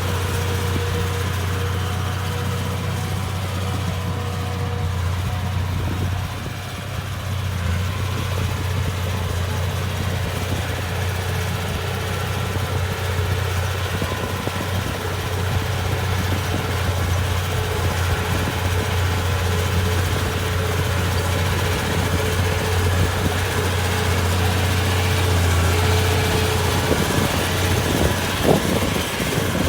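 Komatsu D31P bulldozer's diesel engine running steadily with a low drone, with a few sharp knocks near the end.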